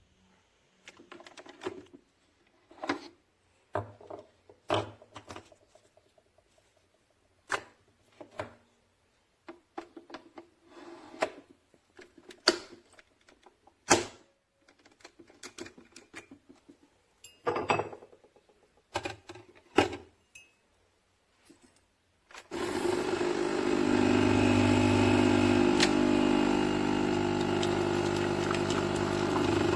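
Scattered clicks and knocks of plastic parts being handled. About 22 seconds in, a Nescafé Dolce Gusto EDG155 capsule coffee machine's pump starts suddenly and runs with a steady hum as it brews.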